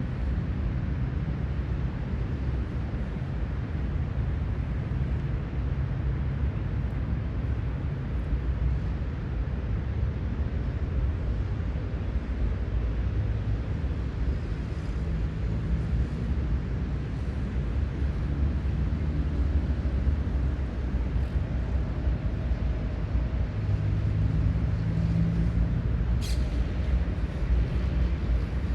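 Steady low rumble of road traffic, with a heavier vehicle's engine hum swelling up between about 23 and 26 seconds in. A brief sharp high sound comes near the end.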